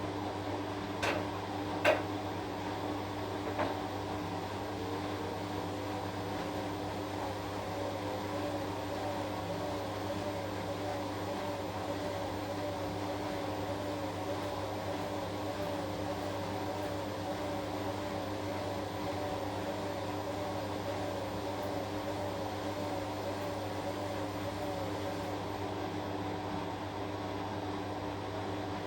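Washing machine running with a steady motor hum. A few short clicks or knocks come in the first few seconds, and a wavering tone rides over the hum through most of the middle.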